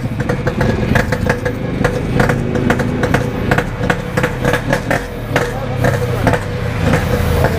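Yamaha RX-King's 135 cc single-cylinder two-stroke engine running at idle, with irregular sharp crackles over the steady rumble. The bike has been refusing to pull, an ignition problem that the owner later traces to a standard spark plug that cannot cope.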